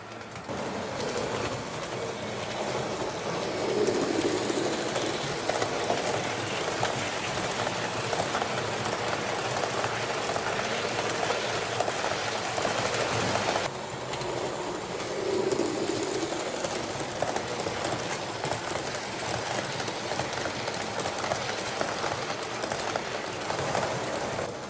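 H0-scale model train running along the track: a steady rolling rush of wheels on rails with rapid fine clicking. The sound breaks off abruptly about halfway through and picks up again with another train passing.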